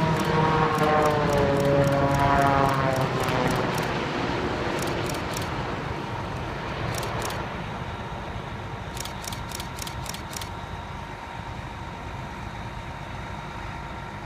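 Boeing 787-9 turbofan engines whining as the jet passes on landing. The engine tones slide down in pitch, and then the noise fades away steadily. Bursts of rapid, high clicks sound over it.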